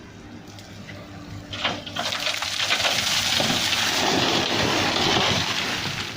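Steady hum of a dump truck's diesel engine, with a loud rushing noise rising about a second and a half in, lasting about four seconds and then fading.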